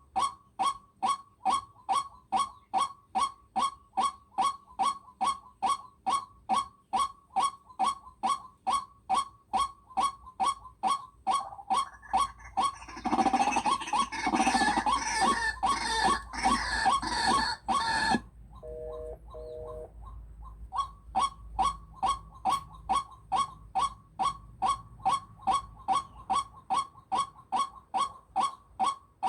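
A short, high bird call repeated evenly about two and a half times a second. Midway it is broken by about five seconds of louder, rough, noisy sound that cuts off suddenly, and a brief steady tone follows before the calls resume.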